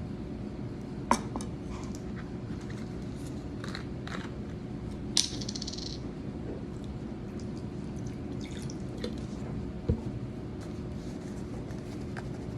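A few sharp clinks of kitchenware, one of them followed by a short hiss of liquid, over a steady low hum.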